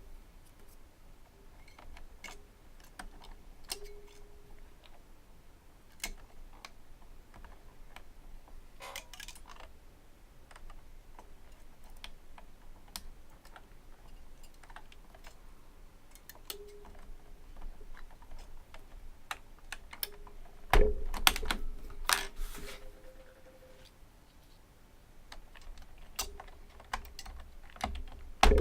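Fujitsu Component Libertouch high-end membrane keyboard being typed on: irregular keystrokes, sparse at first, then a burst of louder, heavier strokes about two-thirds of the way in, a short pause, and typing again near the end.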